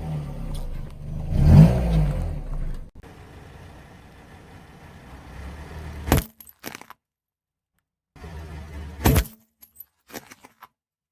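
Car engine running as a tyre rolls onto objects, with sharp cracking and crunching as things break under the wheel, the loudest cracks coming twice later on with silence between them.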